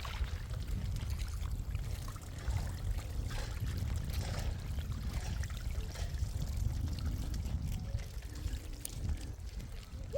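Rainwater pouring and trickling, with a steady low rumble underneath.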